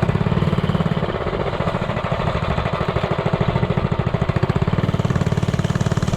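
Minibike's Predator 212 Ghost single-cylinder four-stroke engine running steadily, with rapid, even firing pulses.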